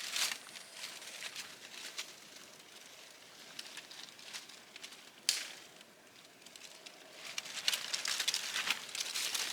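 Rustling and crackling as hands push through material to reach a trapped bird, with a sharp crack about five seconds in and denser, louder rustling over the last two seconds.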